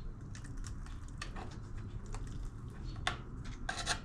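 Scattered light clicks and taps from handling a Kohler Courage engine's freshly pried-off valve cover and its sealant, with two louder brief scrapes, about three seconds in and near the end, over a low steady hum.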